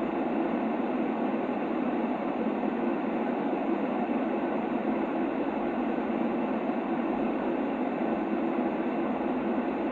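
Steady white-noise sleep sound for a baby: an even, unbroken hiss weighted toward a low rumble, with no highs.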